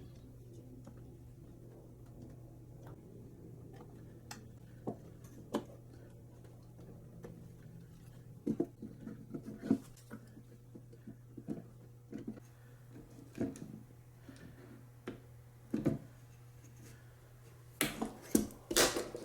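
Scattered light knocks and clicks of wooden parts and tools being handled, over a faint steady low hum, with a quick cluster of louder knocks near the end.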